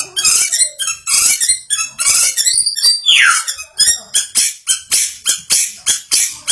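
White-rumped shama giving a series of harsh, scratchy calls that repeat faster and faster, with one falling whistled note about three seconds in.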